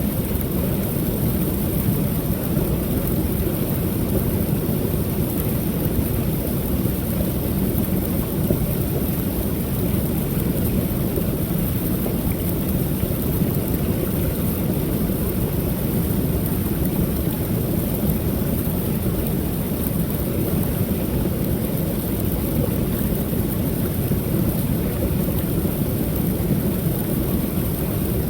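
Small waterfall on a creek: water pouring over the falls with a steady, deep rushing roar that does not change.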